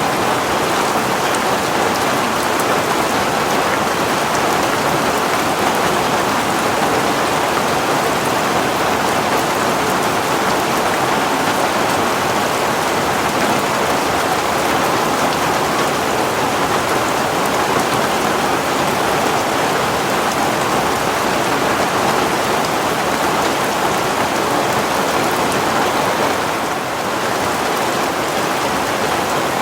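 Heavy rain falling steadily, a constant dense hiss of rain on surfaces with a brief slight lull near the end.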